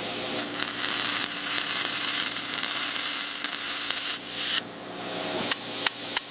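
A steady hiss over a faint low hum that stops suddenly about four and a half seconds in, followed by a few sharp clicks.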